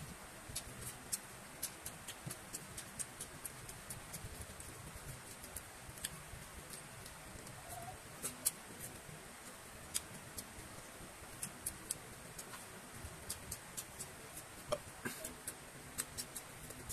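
Close-up eating sounds: irregular sharp mouth clicks and chewing from eating fried rice by hand, over a faint steady high hiss.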